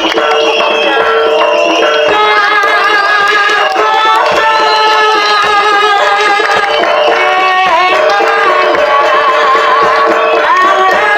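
Live jaranan ensemble music: hand-drum (kendang) strokes under a sustained, wavering melody line.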